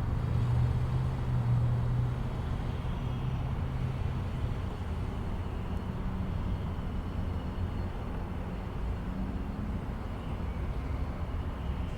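Jet engines of a departing Boeing 737-800 airliner: a steady rumble with a low hum that fades about four seconds in.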